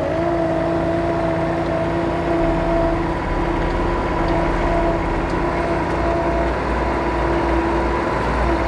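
Bobcat skid-steer loader's diesel engine running steadily, with a deeper low rumble building up about six seconds in.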